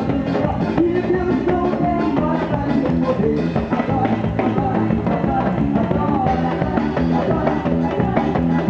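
A live gospel band playing an upbeat song with a steady drum-kit beat, and a voice singing over it.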